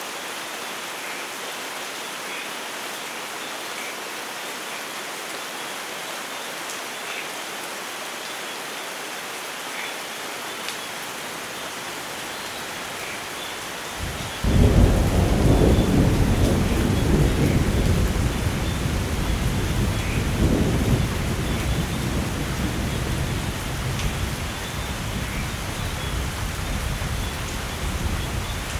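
Steady heavy rainfall, then about halfway through a sudden loud clap of thunder that rolls on as a deep rumble, swells again a few seconds later, and slowly fades under the rain.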